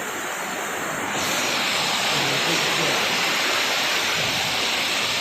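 Heavy rain pouring down, a steady hiss that grows louder about a second in.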